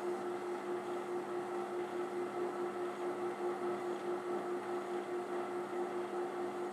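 Variable-speed benchtop drill press running at about 1,000 RPM, a steady hum with a regular pulsing wobble.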